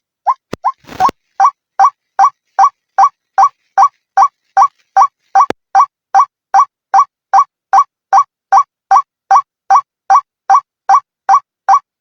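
White-breasted waterhen (ruak-ruak) calling: a steady, even string of short identical notes, each bending slightly upward in pitch, about two and a half a second. A click and a brief rush of noise break in during the first second.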